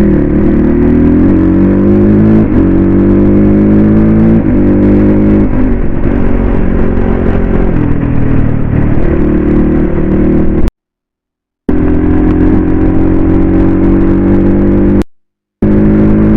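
250 cc dirt bike engine pulling through the gears: its pitch climbs and drops back at each upshift, then holds at a steady cruise. The sound cuts out abruptly twice, for about a second and about half a second.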